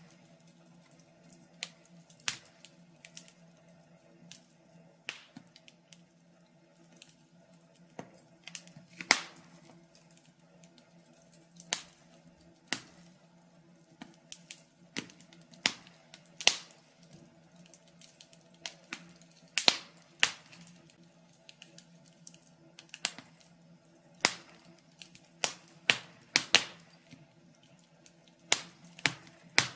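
Wood fire crackling in a fireplace: irregular sharp pops and snaps, some single and some in quick clusters, over a faint steady low hum.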